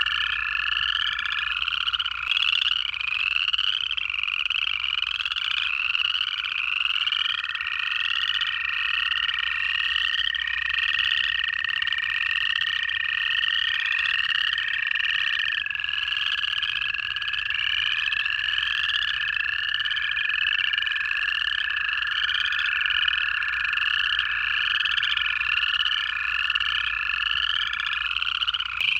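Night frog chorus of upland chorus frogs: many overlapping rising trills, repeating several times a second. Under it run the long, steady, lower trills of American toads, several overlapping, each held for many seconds; the last one stops near the end.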